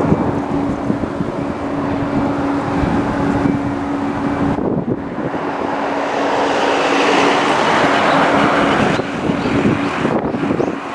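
Strong gusty wind buffeting the microphone, with an airliner's engines running as a steady hum underneath; the wind noise swells in the middle and eases briefly twice.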